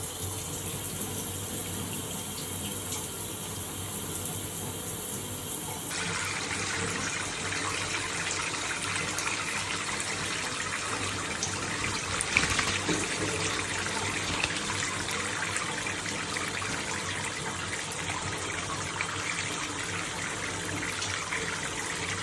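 Shower running: a steady spray of water falling, whose sound shifts about six seconds in.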